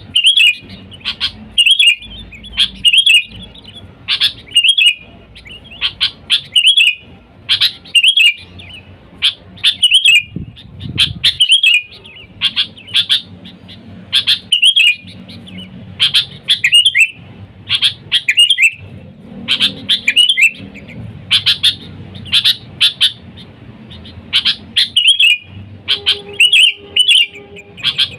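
Sooty-headed bulbul (kutilang) calling over and over in short, sharp chirping phrases, about one or two a second. This is the lively call played to lure wild bulbuls.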